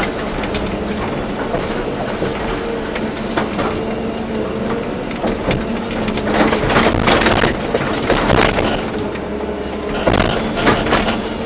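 Volvo EC240B excavator's diesel engine and hydraulics running with a steady hum, with bouts of clanking and scraping from the bucket working soil, busiest in the middle and again near the end.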